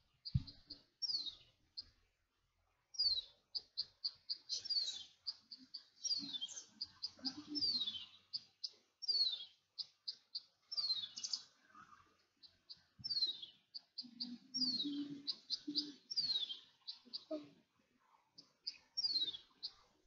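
A songbird singing phrase after phrase: quick runs of short, high chirps broken by fast downward-sliding notes. The sound drops out completely for about a second near the start, and soft rustling sits underneath.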